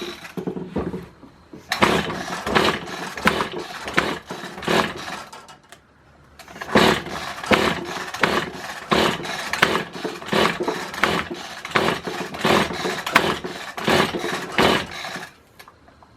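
Kawasaki hedge trimmer's small two-stroke engine being pull-started over and over, the recoil starter ripping out about twice a second in two runs with a short break about six seconds in. The engine turns over but never fires: it is failing to start after a piston ring replacement.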